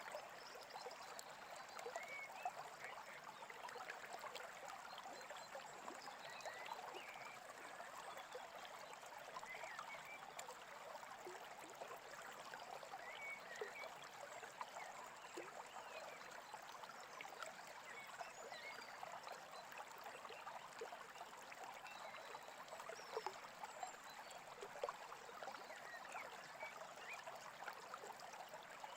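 Small brook babbling steadily, with faint scattered bird chirps.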